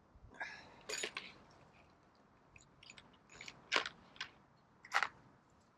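Small metal bolts being handled and tried in a shear-pin hole: a handful of short, sharp clinks and clicks, the strongest about a second in, near the middle and near the end.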